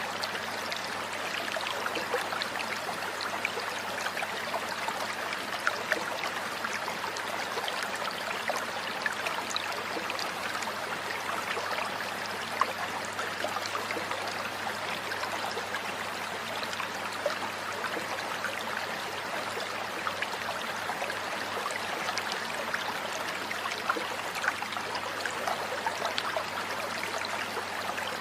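Running water like a stream or small waterfall, a steady rushing sound with scattered short ticks and splashes.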